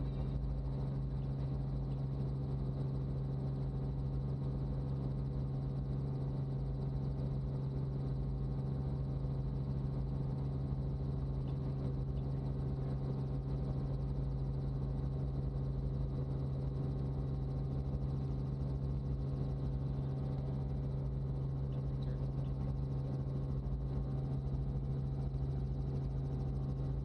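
Robinson R44 helicopter in flight, a steady low drone with a strong constant hum and a rumble beneath it that does not change.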